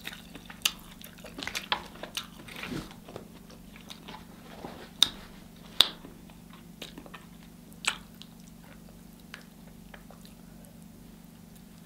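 Close-miked eating sounds: chewing and lip smacking on steamed lobster tail meat, a string of scattered wet clicks with a few sharper smacks around the middle. A faint steady low hum runs underneath.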